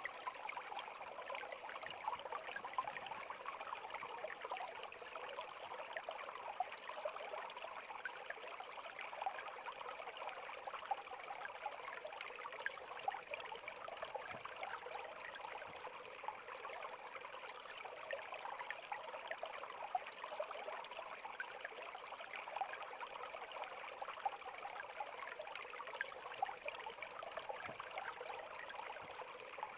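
River water flowing over stones: a steady rushing with constant small splashes and gurgles.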